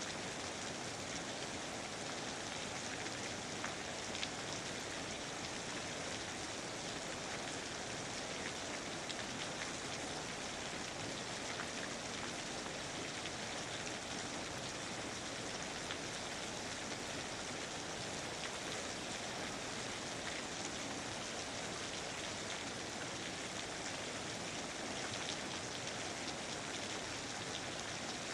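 Steady rain falling on foliage, an even wash with scattered individual drop ticks.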